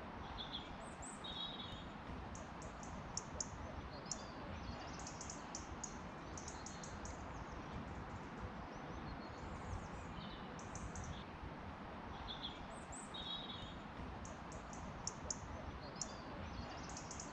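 Small songbirds singing, short high chirping phrases repeating again and again, over a steady background hiss of outdoor ambience.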